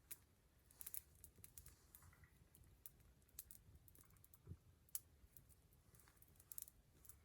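Wood campfire crackling faintly, with irregular small pops and snaps and one soft low thump about halfway through.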